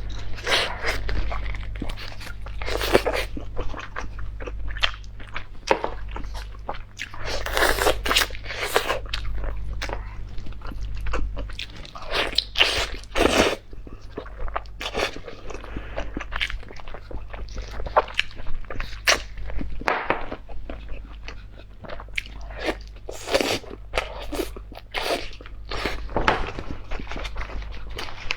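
Close-miked eating: irregular crunchy bites and chewing, several strokes a second in clusters, over a low steady hum.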